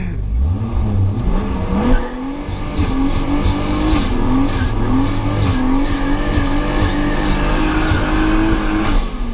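BMW 325is straight-six engine heard from inside the car, revving up hard, then held at high, nearly steady revs for several seconds. The sound cuts off suddenly near the end.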